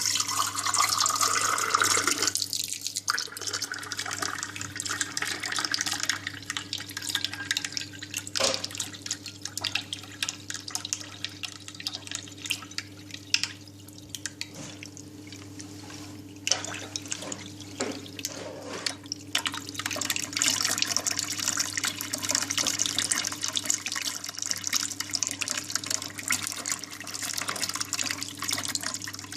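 Tap water running and splashing into a sink. The flow is louder at first and again in the last third, softer in the middle, with a steady low hum underneath.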